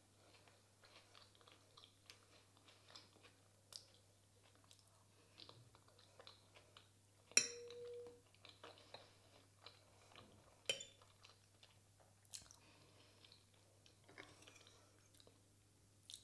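Quiet chewing and mouth sounds of a person eating, with small soft clicks throughout. About seven seconds in a metal spoon clinks sharply against a ceramic sauce bowl and rings briefly, and a second sharp clink comes a few seconds later.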